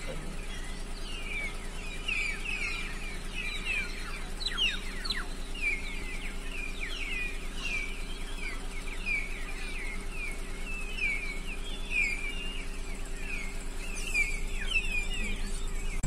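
Small birds chirping busily: many short, high chirps, several a second, over a low steady hum.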